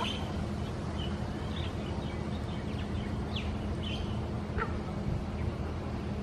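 Scattered short, high bird chirps and whistles, one of them falling in pitch, over a steady low rumble.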